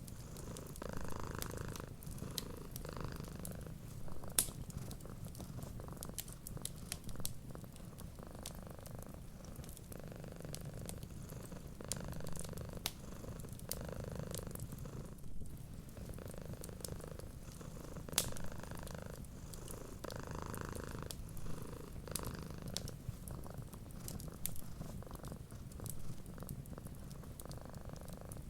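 Domestic cat purring steadily, the purr swelling and fading with each breath, with scattered sharp pops and crackles from a wood fire.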